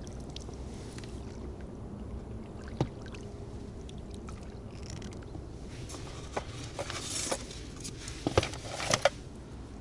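An inflatable boat being rowed with oars: steady water noise with splashes from the oar strokes and scattered knocks and clicks from the oars, more frequent in the second half.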